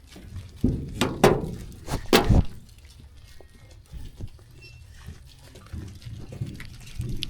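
Sheep close to the microphone: a cluster of loud, short animal sounds about a second in, then quieter scattered grazing noises.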